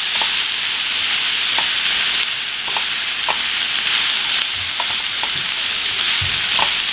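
Chicken, bell peppers and onions sizzling steadily in a hot sauté pan while being stirred with a wooden spoon, with light scrapes and taps of the spoon against the pan about once a second.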